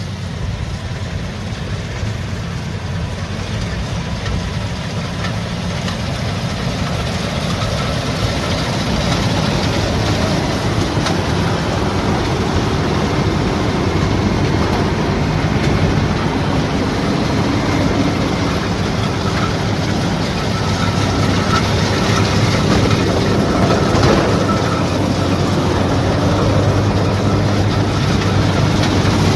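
Rice combine harvester running steadily with a continuous engine and machinery drone, growing louder over the first ten seconds or so.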